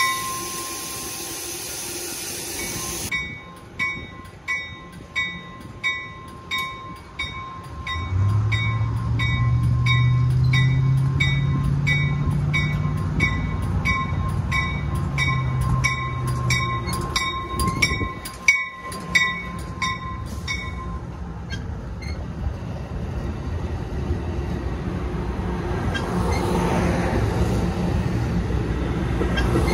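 Diesel locomotive and train at a station platform: a bell rings steadily, about one and a half strikes a second, and stops about 20 seconds in, while the locomotive's engine runs and rises slowly in pitch. Near the end the rumble of the train rolling past grows louder.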